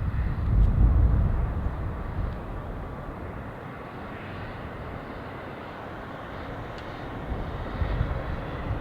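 Boeing 737 MAX's CFM LEAP-1B jet engines rumbling as the airliner lands on a wet runway, loudest about a second in, easing to a steady roar and swelling again near the end.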